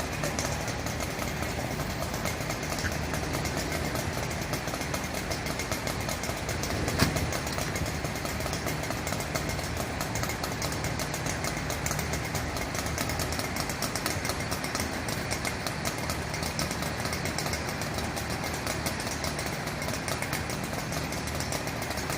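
Fire truck engine running steadily at idle, with a single sharp knock about seven seconds in.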